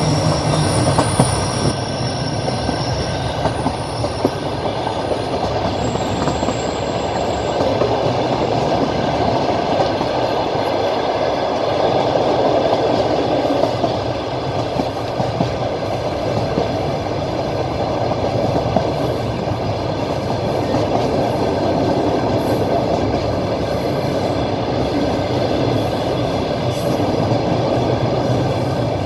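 Passenger train running along the track, heard from inside the carriage at the window: a steady rumble and clatter of the wheels on the rails.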